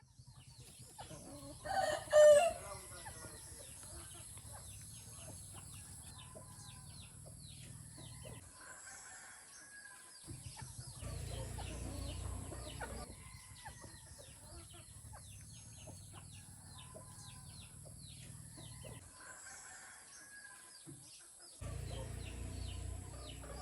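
A rooster crows once, briefly and loudly, about two seconds in, over the chirping of small birds that goes on throughout.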